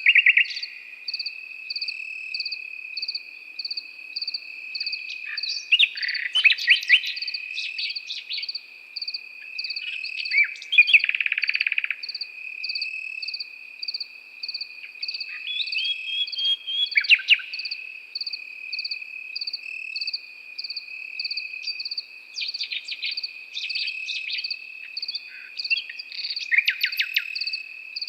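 Crickets chirping steadily, a continuous high trill with a regular pulsing chirp above it, while a common nightingale sings short varied phrases every few seconds.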